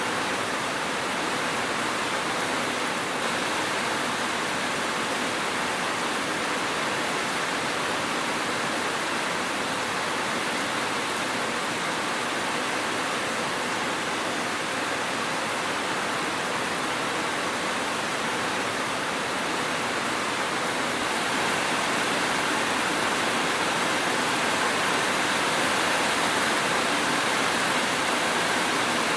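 Steady heavy rain: an even, dense hiss with no single drops or thunder standing out, growing slightly louder about two-thirds of the way through.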